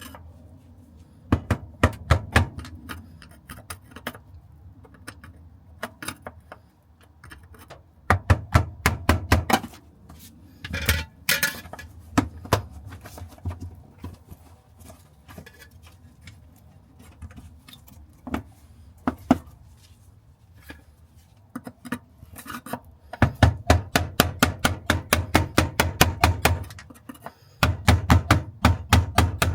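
Bursts of rapid, evenly spaced metallic taps, several a second, from hand tools worked on metal during a car repair. The longest run comes in the last few seconds.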